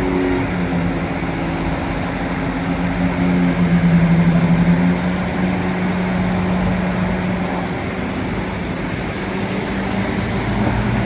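Bulldozer's diesel engine running steadily. About three and a half seconds in, its note drops lower and gets louder for about a second and a half, then returns.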